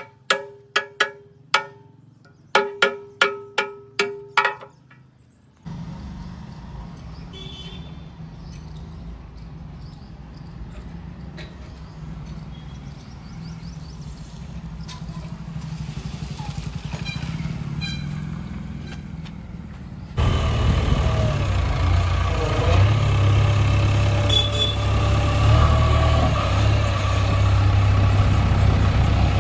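A short run of plucked musical notes, then a machine's engine running steadily with a low rumble. About twenty seconds in it cuts abruptly to a louder, closer engine running.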